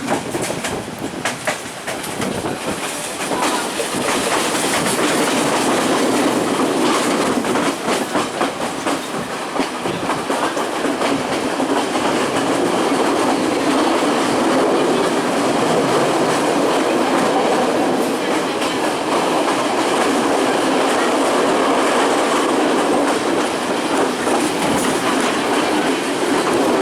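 Train running along the track, its wheels clattering over the rail joints. The sound grows louder over the first few seconds, then holds steady.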